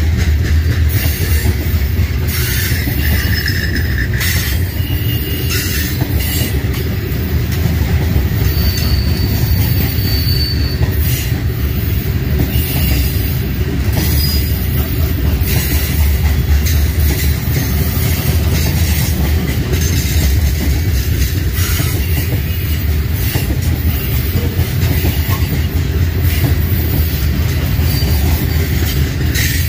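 Covered hopper cars of a freight grain train rolling past close by: a steady, heavy rumble of steel wheels on rail, with brief high-pitched wheel squeals here and there and clacks as the wheels cross rail joints.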